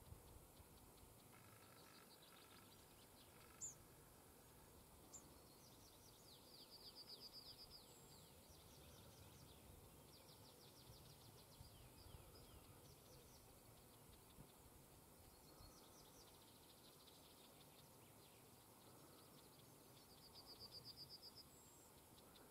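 Near silence of open countryside with faint songbird calls: a small bird's rapid, high trill about six seconds in and again near the end, with a few scattered chirps between.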